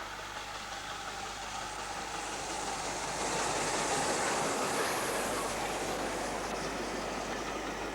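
LNER A4 class three-cylinder Pacific steam locomotive No. 4498 Sir Nigel Gresley running with its train, a dense rush of noise that swells to its loudest a few seconds in and then eases off, as it passes by.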